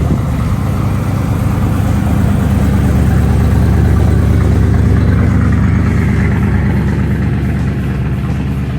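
A car engine idling loudly with an even, rapid firing pulse, swelling slightly in level partway through.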